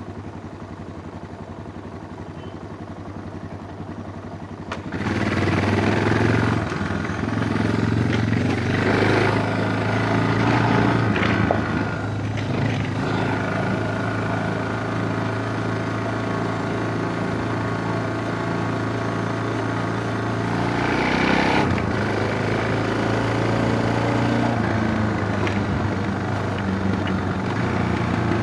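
Suzuki DR650's single-cylinder four-stroke engine running, quieter at first, then suddenly louder about five seconds in, with the revs rising and falling several times.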